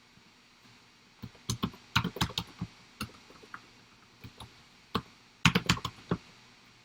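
Computer keyboard typing: irregular bursts of key clicks with short pauses between, the densest run near the end.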